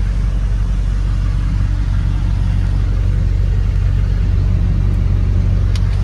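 2002 Chevrolet Silverado 2500 HD's V8 engine idling steadily.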